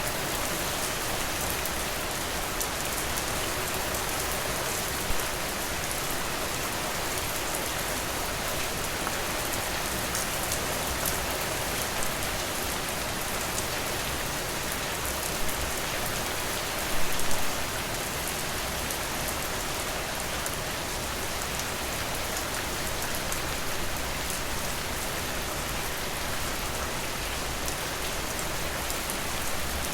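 Steady rain falling, a dense even patter, with a few louder drops standing out, the loudest brief cluster a little past halfway.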